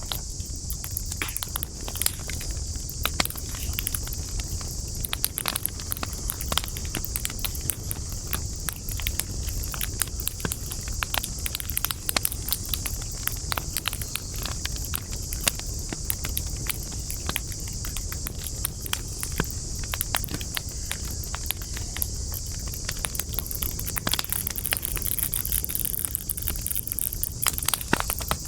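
Wood campfire crackling: irregular sharp pops and snaps over a steady low rumble of burning, with a constant high hiss underneath.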